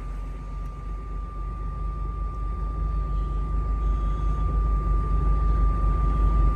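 Semi-truck diesel engine pulling away, its low rumble building steadily louder. A thin, steady high-pitched tone sounds throughout.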